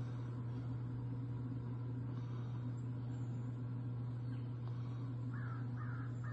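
A bird calling three times in quick succession near the end, over a steady low hum.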